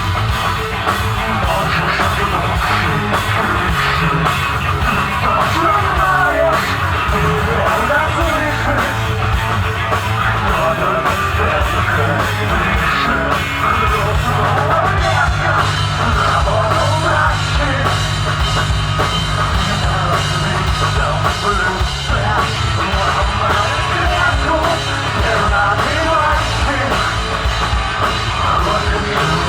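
Rock band playing live, with a drum kit, a bass line and shouted singing, recorded loudly in a small club.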